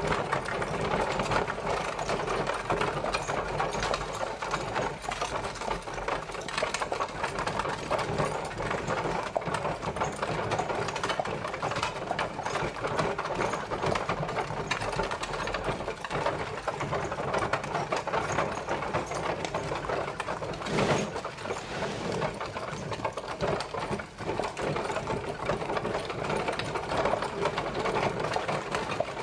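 Horse-drawn carriage travelling: a dense, continuous rattling clatter of the wheels and bodywork on the road, with one louder knock about two-thirds of the way through.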